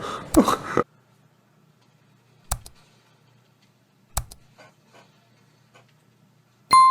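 A voice for the first moment, then two sharp knocks a couple of seconds apart with a few faint clicks over a low hum. Near the end comes a single bright bell ding that rings out for about a second.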